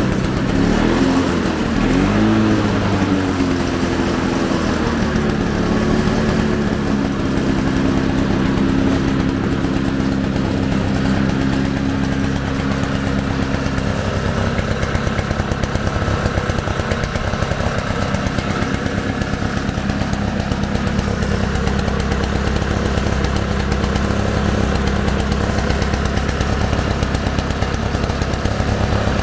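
Ransomes Bob Cat push mower's Briggs & Stratton 096722 two-stroke engine (Komatsu-Zenoah built) running. Its pitch rises and falls for the first couple of seconds, then settles into a steady run.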